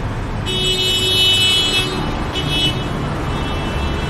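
Road traffic noise with vehicle horns honking: one horn held for about a second and a half, a short toot soon after, and fainter horns near the end.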